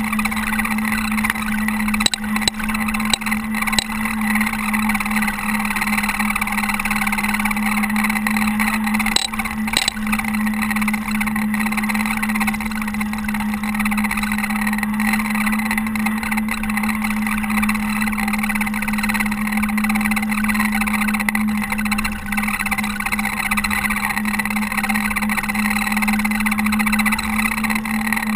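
Caterpillar TH330B telehandler's diesel engine running steadily while it plows snow, heard from inside the cab as a constant hum, with a few short knocks and rattles about two to four seconds in and again near ten seconds.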